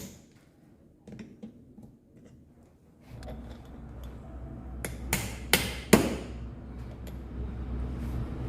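Three sharp metal knocks a little under half a second apart, like a hammer tapping on motorcycle engine parts during rocker arm fitting. A low engine rumble starts in the background about three seconds in and grows louder.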